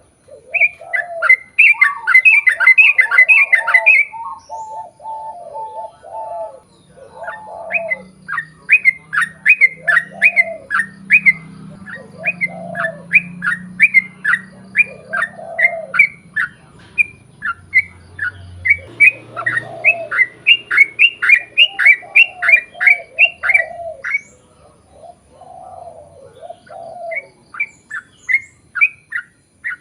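Yellow-vented bulbul (trucukan) song: long runs of sharp, falling chirps, about three a second, repeated with short pauses, with lower, rounder notes between the runs. A long rapid series like this is the kind of call used to lure other trucukan into answering.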